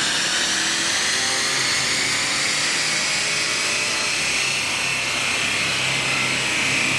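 BMW F10 550i's twin-turbo V8 under full load on a chassis dyno, its pitch climbing slowly and steadily as the revs build through the pull.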